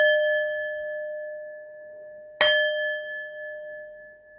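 A singing bowl struck at the start and again about two and a half seconds in. Each strike rings on in a low and a higher steady tone that slowly fade.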